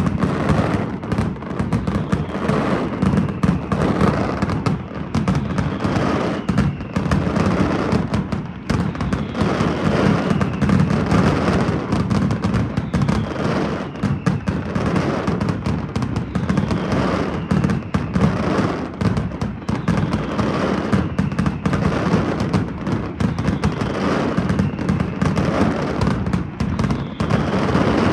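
Daytime fireworks display firing a fast, continuous barrage of bangs and crackling, with no break.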